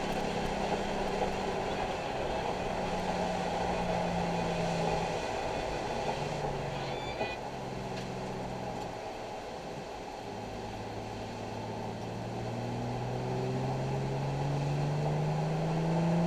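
Nissan 370Z's 3.7-litre V6 heard from inside the car: the engine note eases down through the first half, drops lower about halfway through, then climbs steadily as the car accelerates. Tyre and road hiss runs underneath.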